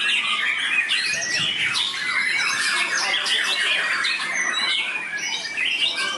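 White-rumped shamas singing: a dense, unbroken stream of rapid, varied song phrases made of quick rising and falling whistles.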